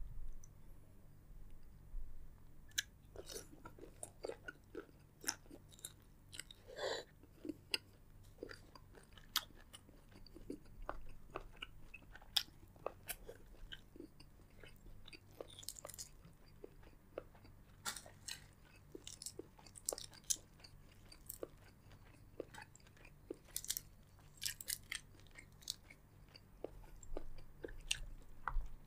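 Close-miked chewing and biting of seafood boil, with many short, irregular crunches and clicks.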